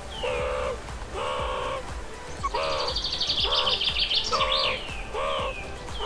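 Birds calling: short falling chirps repeat alongside a run of lower pitched calls, a little more than one a second, with a buzzy high trill in the middle.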